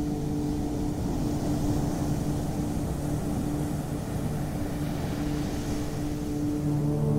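Ocean waves washing ashore in a steady hiss that gently swells and falls, under a sustained ambient drone of low held tones that fade and swell again near the end.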